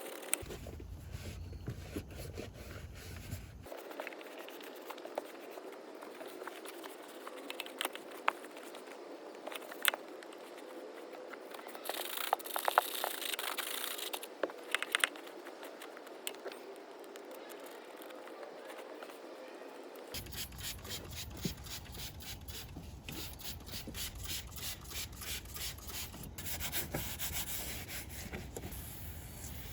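Scrubbing and rubbing on car interior surfaces during cleaning, in several short cuts, with scattered clicks. Near the end come rapid repeated strokes.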